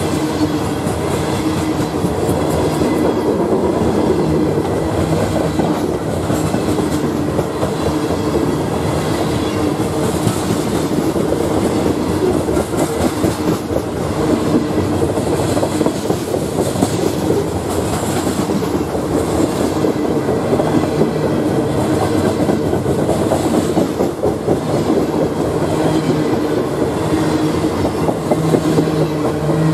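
Loaded coal hopper cars of a freight train rolling past at trackside: steel wheels running loud and steady on the rails, with dense clicking over the track.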